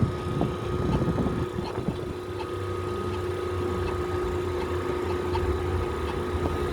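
A machine running with a steady hum and a thin whine, with scattered knocks and rattles of metal parts being handled in the first two seconds.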